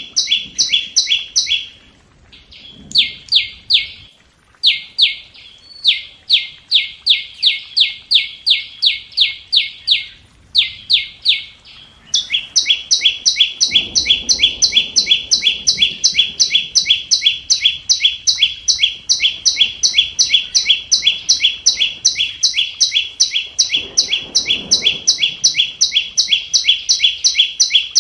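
Flowerpecker call: rapid, evenly repeated high-pitched chip notes at about five a second, in short broken runs at first, then an unbroken run from about twelve seconds in. A lure call of the kind played to draw wild birds into a trap.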